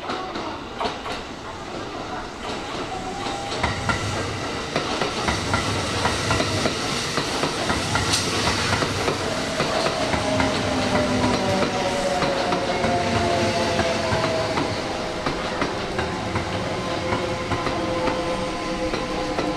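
Electric commuter train running into the station, growing louder over the first few seconds. Its wheels click over the rail joints, and from about halfway a whine slides slowly down in pitch as the train slows.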